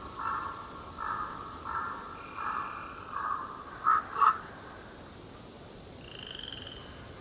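A bird calling over and over in a steady series, about one short call every two thirds of a second, ending with two louder, sharper calls about four seconds in. A fainter, higher call comes near the end.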